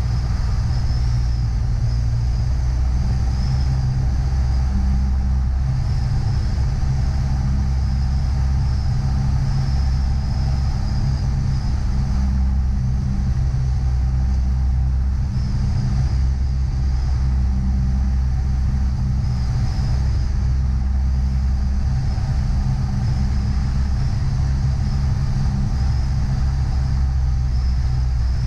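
Piper PA-28 light aircraft's engine and propeller running steadily, a low, even hum with a faint higher whine above it.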